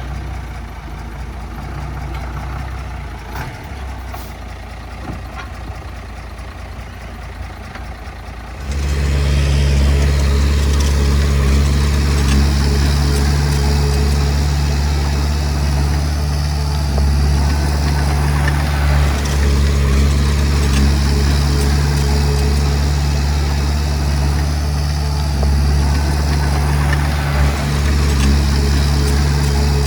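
Heavy diesel engine of earthmoving machinery running steadily, quieter at first, then abruptly much louder about nine seconds in and holding there.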